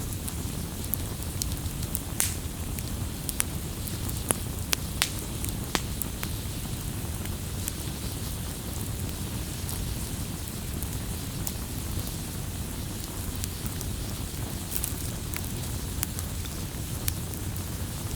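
Wood fire crackling over a steady low rumble of flames, with scattered sharp pops and snaps.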